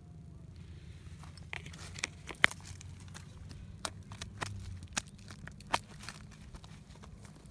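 Irregular sharp clicks and crunches, about a dozen, the loudest about two and a half seconds in, over a low steady rumble.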